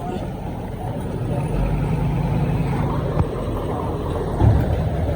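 Diesel engine of heavy earthmoving machinery running steadily under load, with two short knocks in the second half.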